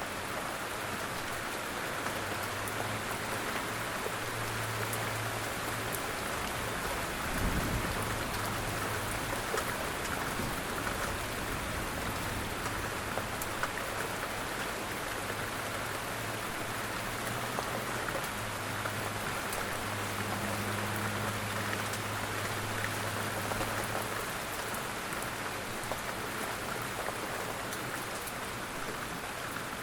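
Steady rain falling, with scattered drop ticks. A low hum comes and goes through the middle, and there is one brief low thud about seven seconds in.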